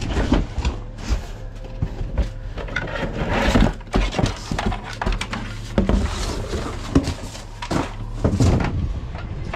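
Objects being handled and rummaged through in a box: irregular knocks, clatters and rustling, over a steady low hum.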